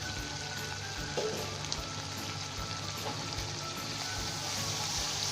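Onion-tomato masala paste with a little water sizzling in hot oil in a cooking pot, a steady hiss that grows a little louder near the end.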